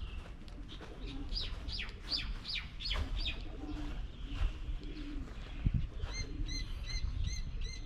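Birds calling: a run of about seven quick falling whistles, then short ringing notes repeating about three a second near the end, over low cooing of doves.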